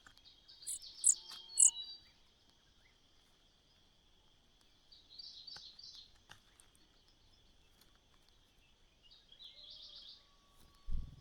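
Small birds chirping in three short bouts of rapid high notes over a steady high-pitched insect drone, with a brief low thump near the end.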